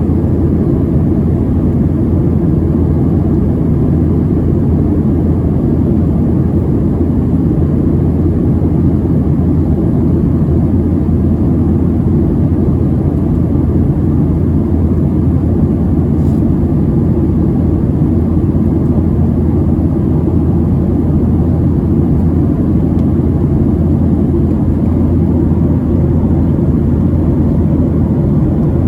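Steady low cabin drone of a Boeing 737-700 climbing: the CFM56-7B turbofan engines and rushing airflow, heard from inside the passenger cabin.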